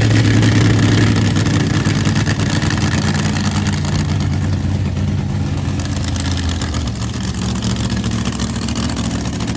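Monster truck engine idling steadily, a deep, even rumble that eases off slightly partway through.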